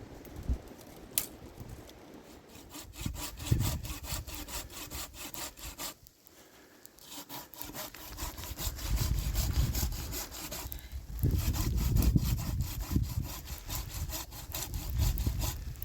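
Rapid, rhythmic rasping strokes, breaking off briefly about six seconds in, then resuming.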